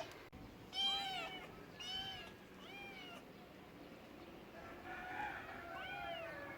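Cat meowing: three short meows about a second apart, then a longer meow in the second half.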